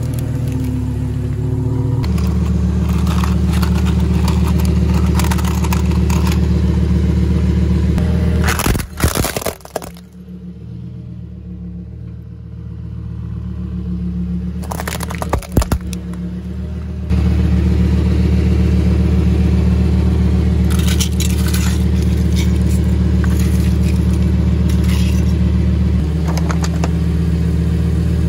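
A sports car's engine running with a steady low drone, interrupted twice by short loud crunches of objects being crushed under a tyre, about nine seconds in and again about fifteen seconds in. Between the crunches the engine note is quieter for several seconds.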